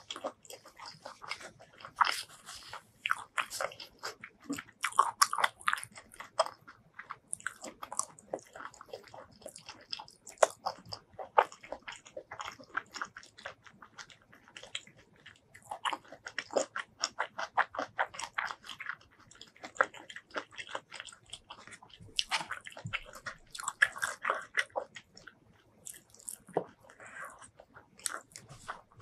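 Close-miked chewing and biting: wet, crackly mouth sounds of food mixed with spicy tomato fish-paste curry being chewed, with short crunches, in a steady run with brief pauses.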